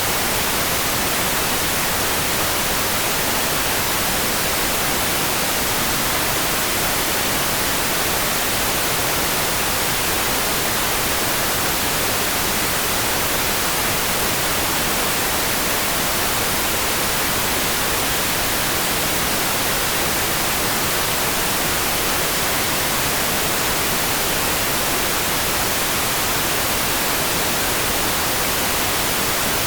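Rain-for-sleep sound: a steady, even hiss of heavy rain with no single drops, gusts or other events standing out, unchanging throughout.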